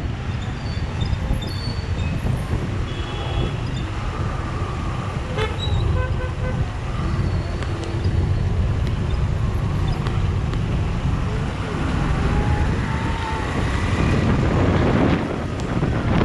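Road traffic rumble with several short vehicle horn toots in the first half.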